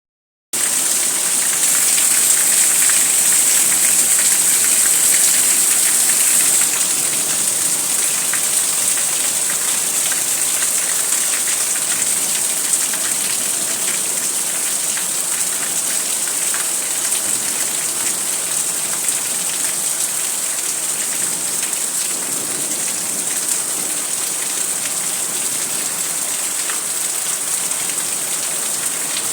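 Heavy rain falling steadily, a dense even hiss, a little louder for the first several seconds.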